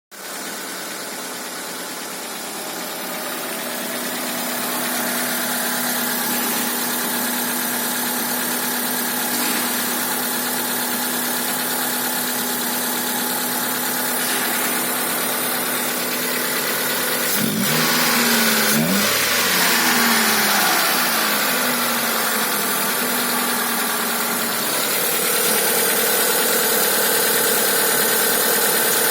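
Mitsubishi 4G15 inline four-cylinder petrol engine idling steadily. It is revved briefly twice about two thirds of the way through, then settles back to a slightly higher idle.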